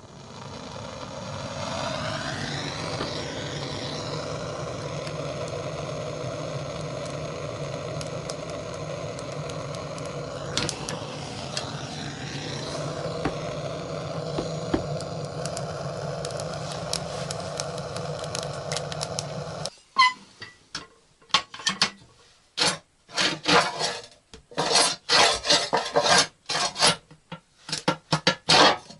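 A motor spins up, rising in pitch over the first couple of seconds, then runs steadily with a couple of brief pitch swings. It cuts off abruptly about 20 s in, and rhythmic rasping strokes follow, like wood being sawn or filed by hand.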